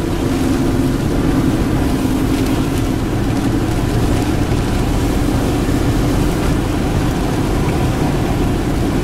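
Steady road and engine noise inside a moving car, with rain and gusty wind against the vehicle.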